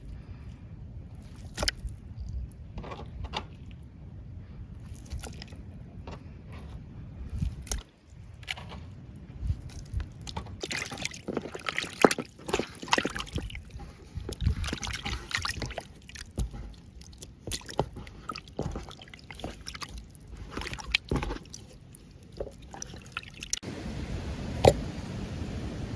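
Water sloshing and dripping, with scattered clicks and knocks of things being handled.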